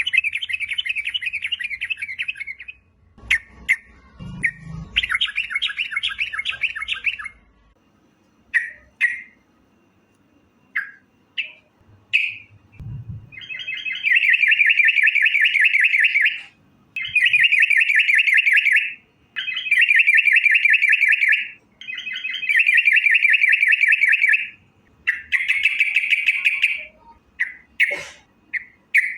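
Yellow-vented bulbul (trucukan) calling in repeated bouts of rapid, rattling chatter, each two to three seconds long, with short single notes between the bouts.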